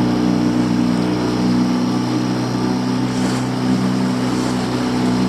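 A small fishing boat's engine running steadily at constant speed, with an even pitch that does not change.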